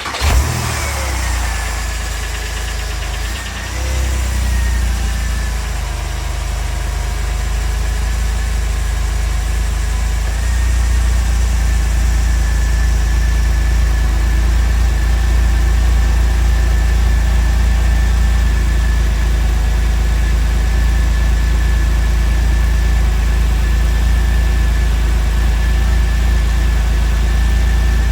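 Porsche 996 Carrera 4S 3.6-litre flat-six just started from cold, its revs falling over the first couple of seconds and then settling into a steady idle that grows fuller about ten seconds in.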